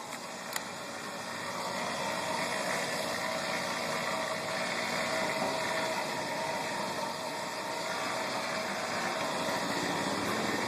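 Steady mechanical running noise like a motor, with a single sharp click about half a second in.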